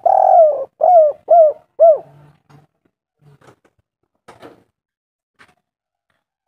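Spotted dove cooing: one long coo followed by three short ones, ending about two seconds in. A few faint clicks follow.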